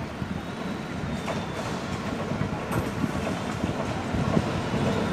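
Broad gauge diesel-hauled passenger train approaching slowly, its engine and wheels on the rails growing steadily louder as it nears, with a light clatter over the rails.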